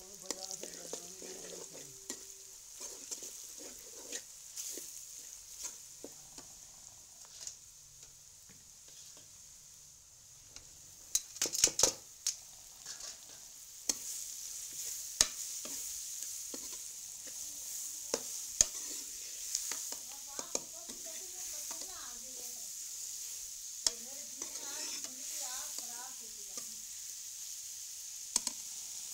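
Sliced bitter gourd frying in oil in a metal karahi, sizzling steadily while a steel ladle stirs it and scrapes and clicks against the pan. A burst of loud clatter comes about eleven seconds in. From about fourteen seconds in the sizzling is louder, with sliced onions and green chillies now frying in the pan too.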